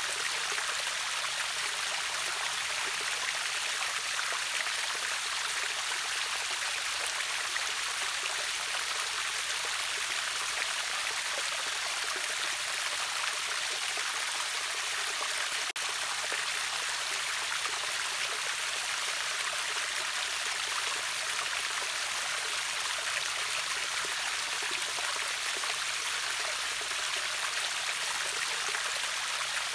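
Steady rushing of a river waterfall: an even, hiss-like water noise, bright with little bass, with a momentary dropout about halfway through.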